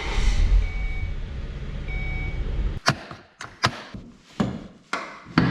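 A steady low rumble with two faint short beeps in it cuts off about three seconds in. It is followed by five sharp knocks and clicks, a fraction of a second to a second apart.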